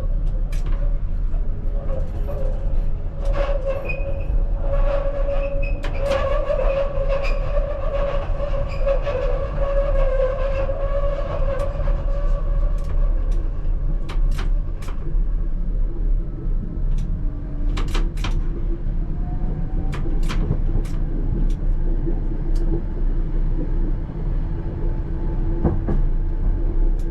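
ČKD Tatra T3R tram running on its rails: a steady low rumble with a wavering whine that fades after about twelve seconds, a lower whine later on, and scattered sharp clicks and knocks, a cluster of them about two-thirds of the way through.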